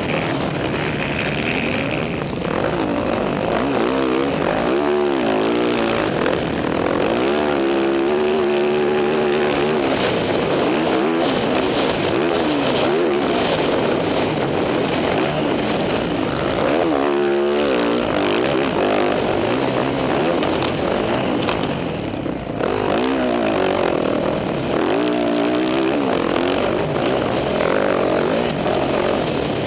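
Dirt bike engine being ridden hard, its pitch rising and falling several times as it revs and shifts, over a constant rushing noise.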